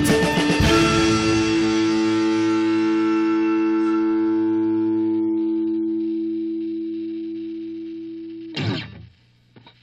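Background music: a guitar chord strummed and left to ring, fading slowly away over several seconds. A short noisy burst comes near the end as the sound stops.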